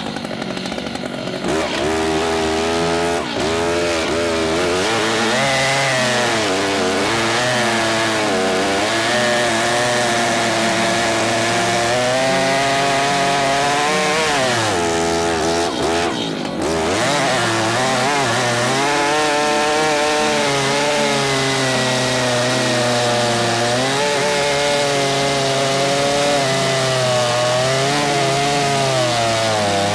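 Stihl MS 881 two-stroke chainsaw running at full throttle while cutting through an oak log. Its engine pitch wavers as the chain loads up in the cut, with a deeper sag and recovery about halfway through.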